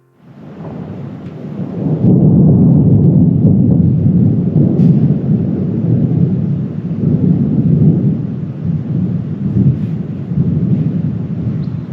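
A long, loud, low rumble that swells in over the first two seconds, then rolls on unevenly.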